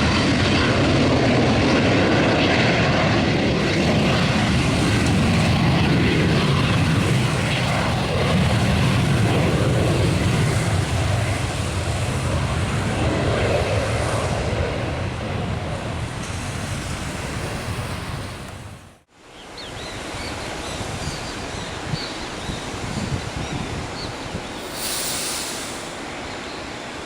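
Aircraft engine noise from a passing plane, loud at first and slowly fading, cut off sharply about two-thirds of the way in. After the cut comes a quieter, steady wind noise on the microphone.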